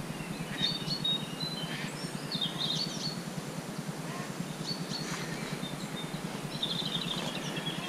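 Songbirds chirping and calling in short scattered phrases, with a quick trill near the end, over a steady outdoor background hiss.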